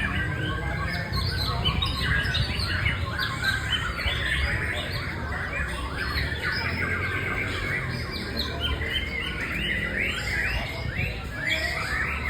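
White-rumped shama singing a rapid, varied stream of chattering and squawking notes, over a steady low background rumble.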